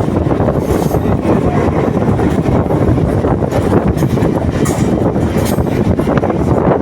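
Train running along the track: a loud, steady rumble of wheels on rails, with faint high clicks now and then.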